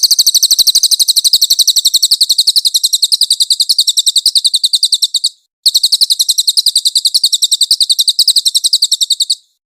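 A cililin songbird singing its 'nembak' song: a very rapid, even, machine-gun-like trill of high notes. It sings two long bursts, separated by a brief break about five seconds in.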